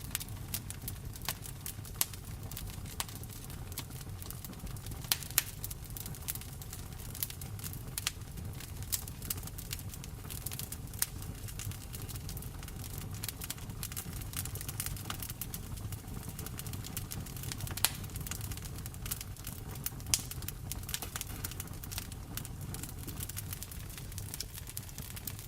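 Wood fire crackling in a fireplace: irregular sharp pops and snaps, a few louder ones, over a steady low rumble with rain pattering.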